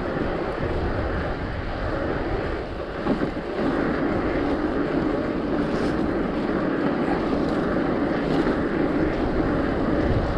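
Strong wind buffeting a GoPro action camera's microphone on a moving bicycle: a steady rushing noise, fuller from about three and a half seconds in.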